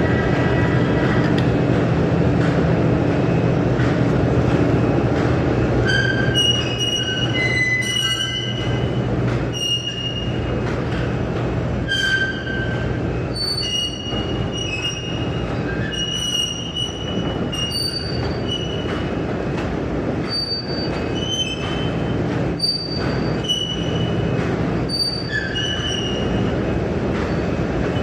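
Train running with a steady low rumble, its wheels giving many short high-pitched metallic squeals from about six seconds in.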